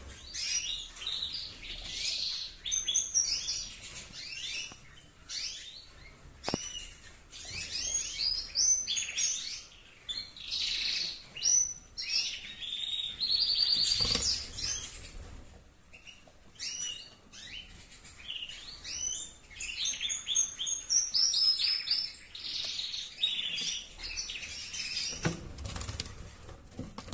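Domestic canaries singing in warbled, rapidly changing phrases of chirps and trills, with a long rolling trill about halfway through.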